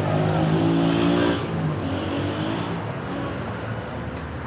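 A motor vehicle's engine passing close by, loudest in the first second and a half and then fading, over steady street traffic noise.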